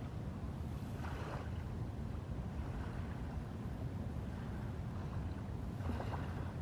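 Steady low rumble with wind noise, with two short swishes rising above it, about a second in and again near the end.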